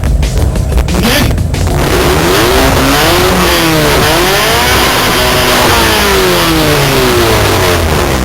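Hyundai Lantra's engine revved hard through a loud exhaust, held at high revs with the pitch rising and falling, for an exhaust loudness measurement.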